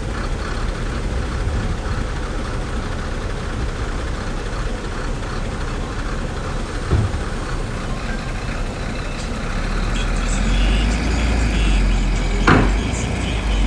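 Heavy diesel earthmoving machinery running steadily, its low rumble growing louder about two-thirds of the way in. A short knock comes about halfway through, and a sharp clank near the end.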